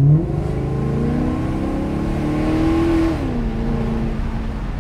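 Maserati GranTurismo Sport's 4.7-litre V8 accelerating, heard from inside the cabin: the engine pitch climbs for about three seconds, the revs drop quickly, and then it runs steady.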